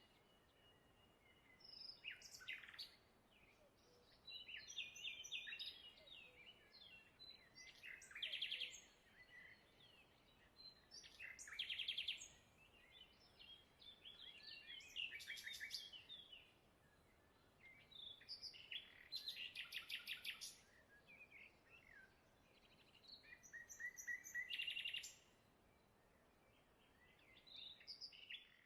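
A songbird singing in short phrases of rapid chirps and trills, one phrase every three to four seconds, over a faint outdoor hiss.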